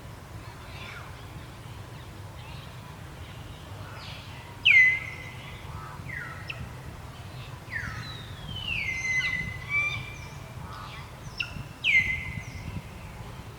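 A series of loud, high-pitched animal calls, each sliding down in pitch and then holding briefly on a level note. The loudest come about five seconds in, around eight to nine seconds in, and near the end.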